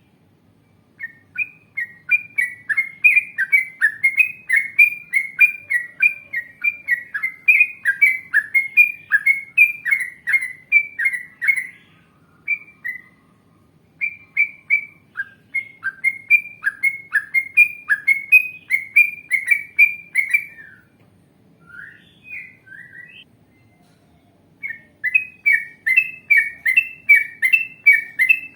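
Yellow-vented bulbul (trucukan) singing long, fast runs of short bubbly chirps, about three notes a second. There are gaps near 12 s and 21–24 s, with a few odd notes in the second gap.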